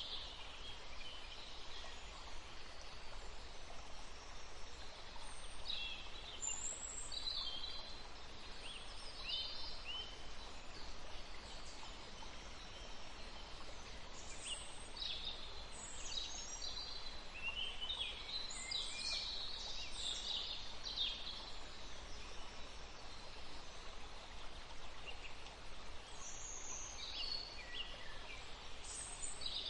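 Songbirds chirping and singing: many short, high calls coming in flurries, with a lull about two-thirds of the way through, over a steady faint background hiss.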